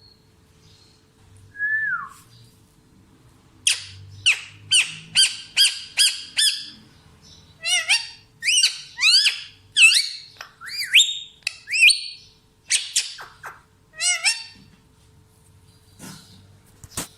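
Parrot calls: a single falling whistle, then a long run of sharp, rapid calls, about two or three a second, many sliding upward in pitch, in two bouts.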